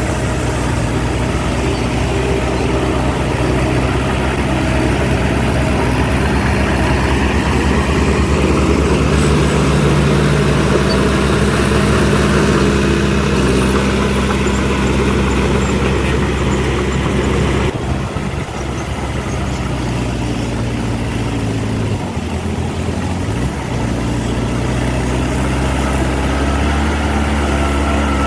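Heavy diesel earthmoving machinery running steadily, its engine note shifting in pitch a few times, with an abrupt change about eighteen seconds in.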